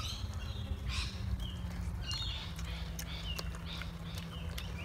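Biting and chewing spit-roasted rabbit meat: scattered crackly clicks and tearing noises, over a steady low rumble, with a few short high chirps in the background.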